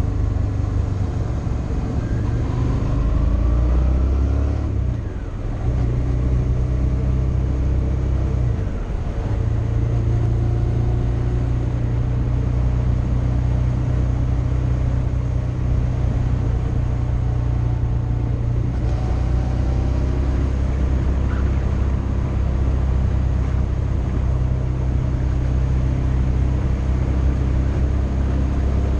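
Motorcycle engine running steadily while riding, a low drone that eases off briefly twice, about five and nine seconds in.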